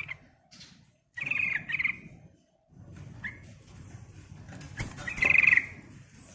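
Yellow-vented bulbul calling: two loud bursts of rapid chattering notes, one about a second in and a second just after five seconds, with a few weaker notes between, over a low rumble.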